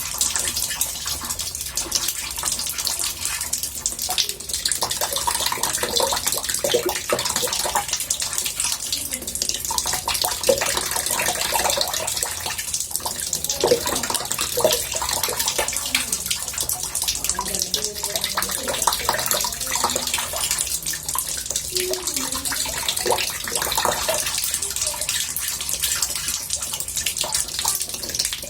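Tap water running into a bathtub: a steady splashing rush with small bubbling gurgles through it.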